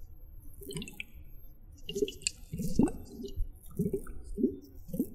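Wet squishing and gurgling water sounds close to the microphone: a string of short bubbly squelches, roughly two a second.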